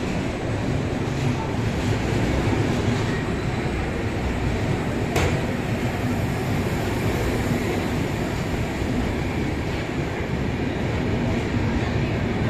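Passenger train's coaches rolling past along the platform as it pulls into the station: a steady rumble of wheels on the rails, with one sharp click about five seconds in.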